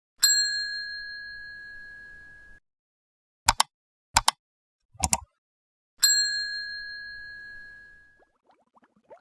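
A bright bell ding rings out and dies away over about two seconds, followed by three short sharp clicks and then a second, identical ding.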